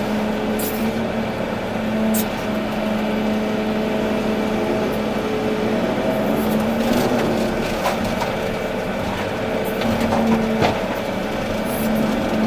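Volvo EC380D excavator's diesel engine running steadily with a held hum, with a few sharp clicks and knocks over it.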